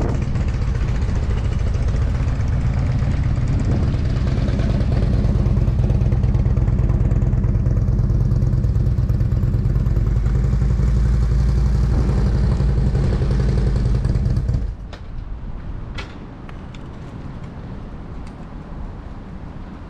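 Motorcycle engine running close by, steady, then cutting off suddenly about fifteen seconds in; a few faint clicks follow.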